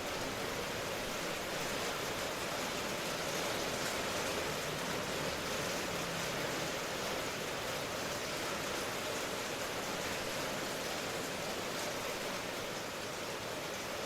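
Steady rain as an even, unbroken hiss, with no single drops or other sounds standing out.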